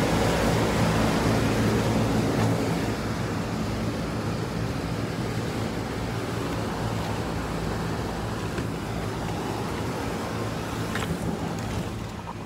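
Cadillac ATS engine idling steadily, with a rushing noise over it; a brief click comes near the end.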